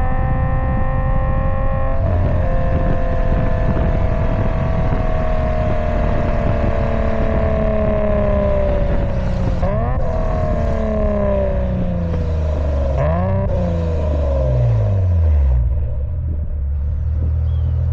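A Subaru Legacy 3.0R's EZ30R flat-six running through an aftermarket exhaust with headers, X-pipe and titanium mufflers. The engine note holds, then slides steadily down in pitch, then dips and climbs again a couple of times as the car is driven.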